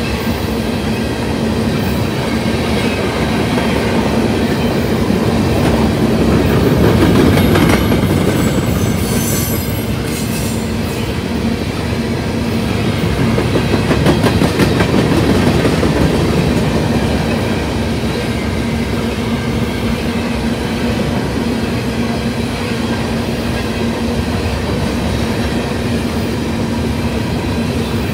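Freight train of covered hopper cars rolling past: a continuous rumble of steel wheels on the rails, swelling a little twice as the cars go by.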